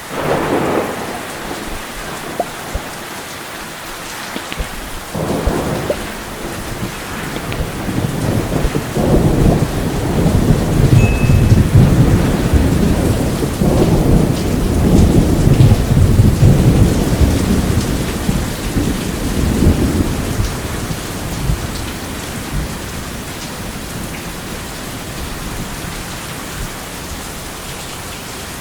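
Steady heavy rain with rolling thunder: a long, low rumble builds from about eight seconds in, peaks through the middle and dies away after about twenty seconds.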